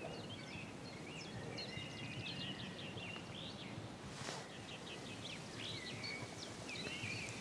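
Small birds chirping and trilling steadily over low outdoor background noise, with a brief burst of noise about four seconds in.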